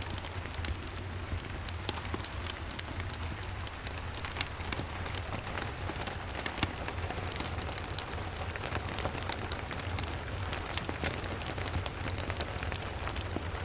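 Steady rain with many small sharp clicks of drops and crackles, mixed with a crackling wood fire, over a steady low rumble.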